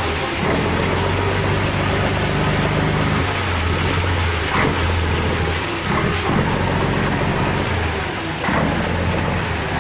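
Heavy vehicle's engine running at low revs, its hum swelling and easing, over a steady rushing noise, with a few light knocks.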